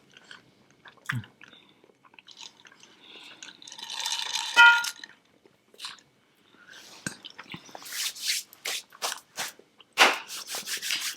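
Close-miked mouth sounds of sushi being chewed: wet clicks and smacks, sparse at first and turning into rapid, dense chewing in the second half. A brief high-pitched squeak stands out about four and a half seconds in.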